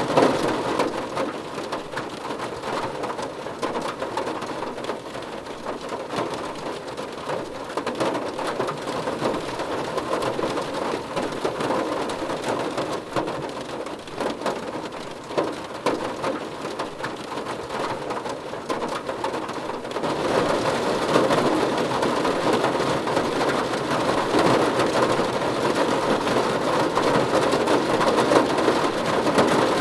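Steady rain falling, a dense patter of drops on a surface, growing louder and brighter about two-thirds of the way through.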